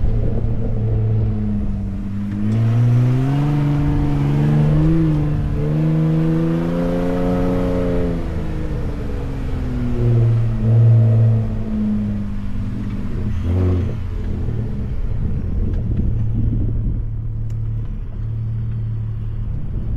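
Ford F-150 Raptor's twin-turbo V6 engine pulling through sand dunes. The revs climb steadily for several seconds and then fall away, with a brief blip, before it runs steadily at lower revs.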